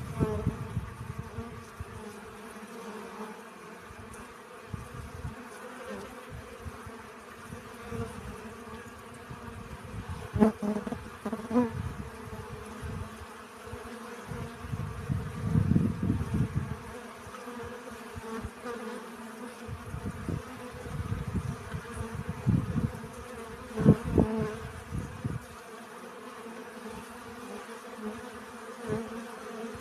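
Bees buzzing while foraging for pollen: a steady, pitched hum. Irregular low rumbles and thumps come and go, and the loudest of them fall about 10, 16 and 24 seconds in.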